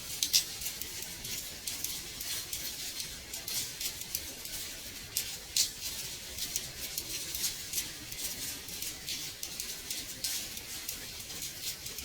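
Rain pattering on a window pane: a steady high hiss of rainfall with many irregular light taps of drops striking the glass.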